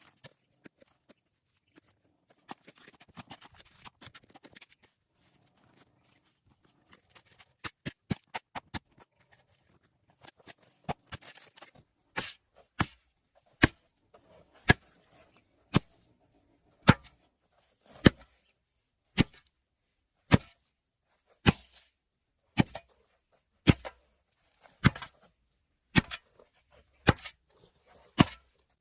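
A series of sharp knocks or strikes, sparse and faint at first, then from about eleven seconds in loud and steady at roughly one a second.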